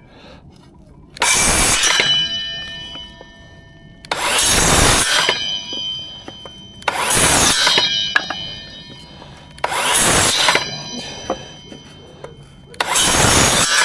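Power saw making five short cuts through timber, about three seconds apart, with a ringing tone after each cut.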